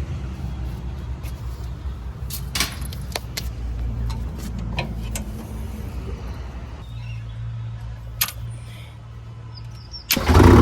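Heavy vehicle engine running at a low, steady idle with scattered clicks and knocks. Near the end the engine sound jumps sharply louder.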